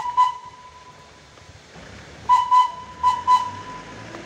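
A whistle with one steady, fairly high tone, most likely the toy train's whistle. It gives two quick blasts, then four short blasts about two seconds later, with a faint held tone in between.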